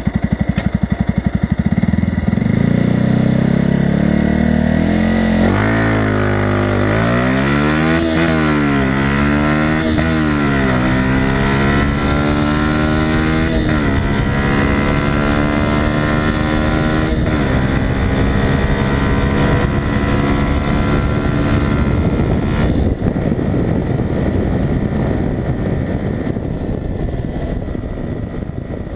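Yamaha YZF-R125's single-cylinder four-stroke engine through a LeoVince aftermarket exhaust, accelerating hard through the gears. After a few seconds at low revs, the pitch climbs and breaks at each upshift, four times. The engine then holds high revs before the sound turns rougher and fades near the end.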